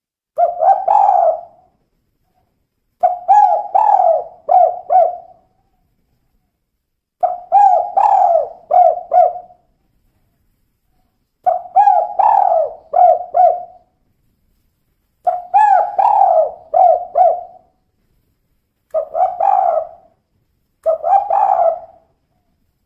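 Female spotted dove (tekukur) cooing in the 'kuk 2' pattern: seven phrases of low coos, each of one to four notes, spaced about every three seconds with pauses between.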